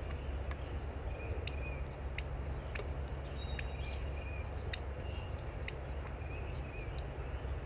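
A bird tapping its feet on the feeder: sharp, irregular taps about once a second, with a few faint high chirps.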